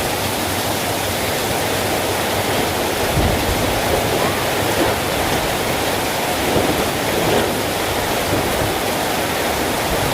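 Heavy rain pouring steadily in a strong wind, with a few low gusts of wind buffeting the microphone about three seconds in and again around six to seven seconds in.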